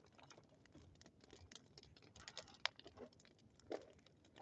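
Wood bonfire crackling: faint, irregular snaps and pops, a few sharper ones standing out.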